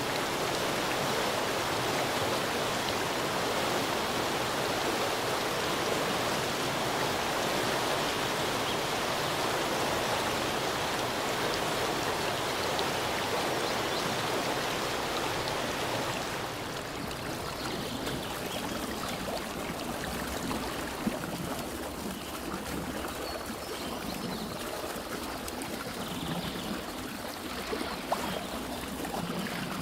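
Steady rush of a flowing stream. About halfway through it changes to a softer, duller flow, with a couple of brief clicks.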